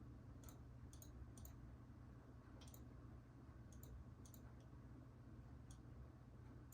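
Near silence: a low steady background hum with faint, scattered high ticks, about one or two a second.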